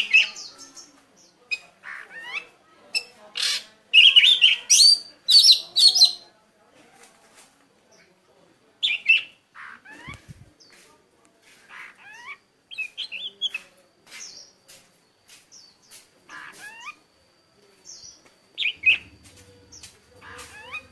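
White-eyes singing: rapid, high twittering chirps and sweeping notes from more than one bird, loudest in a dense burst about four to six seconds in, then scattered calls.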